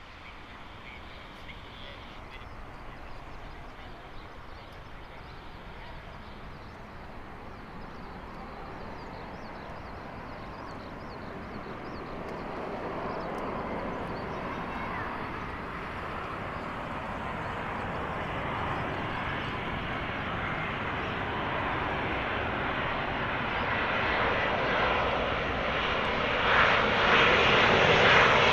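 Boeing 787-9 jet engines on approach to land, a steady jet rush that grows gradually louder as the aircraft comes closer, loudest near the end.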